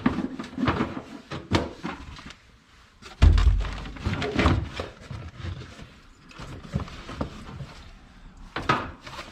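Clatter of short knocks and clicks as objects are handled, with one heavy thump about three seconds in.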